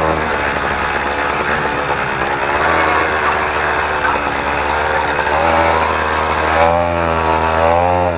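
Motorized bicycle's small engine, running through a small homemade muffler, being ridden hard in a quick pass-by: a rough, ragged run for about five seconds, then a steadier, even note.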